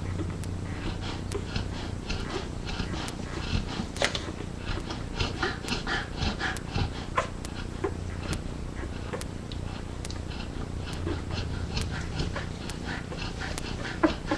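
Yellow Labrador retriever mother breathing heavily and snoring low in her sleep, while her nursing puppies make quick, irregular suckling clicks.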